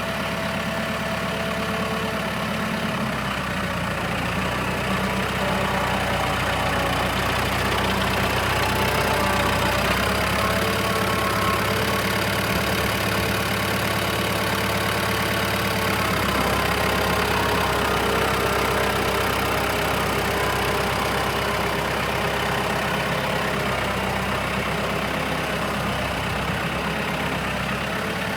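Case IH 995 tractor's diesel engine idling steadily just after starting, its note shifting slightly a few seconds in and again about halfway through.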